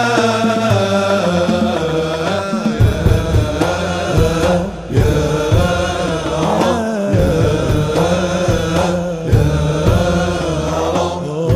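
Arabic devotional nasheed: chanted singing that bends in pitch over a steady low drone and a repeated low beat.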